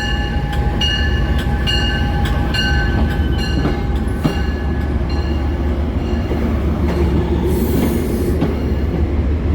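Metro-North Hudson Line commuter train pulling into the station: a steady low rumble with a series of short, high-pitched wheel squeals over the first few seconds, and a brief hiss near the end.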